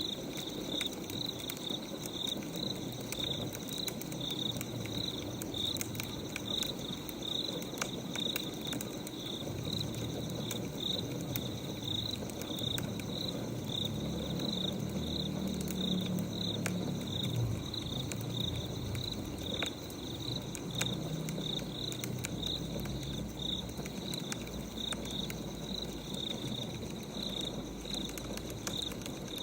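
Crickets chirping steadily, about two chirps a second, over sparse faint crackles of burning firewood, with a low rumble swelling for a few seconds mid-way.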